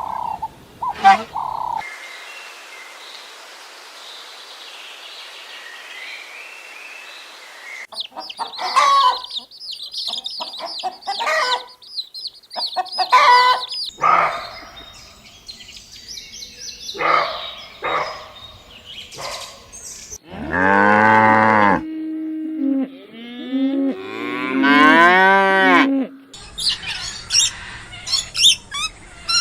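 Farm animal recordings: short high bird calls through the first half, then a cow mooing twice, two long calls in the last third that are the loudest sounds, followed by more high chirping.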